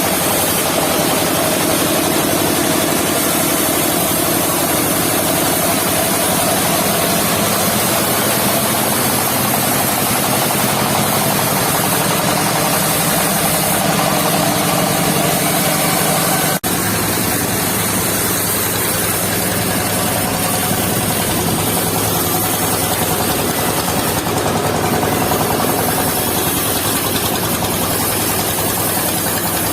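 Engine of a mobile circular sawmill running steadily with the saw blade turning. About halfway through, a sudden break, after which the engine note settles lower.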